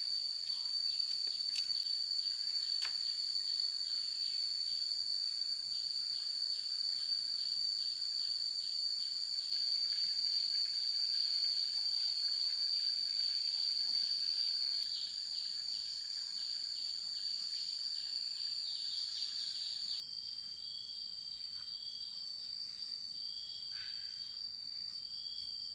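A chorus of insects: a steady, high-pitched drone with faint pulsing chirps under it. About twenty seconds in, the sound changes abruptly, and a lower buzzing call comes and goes in short spells.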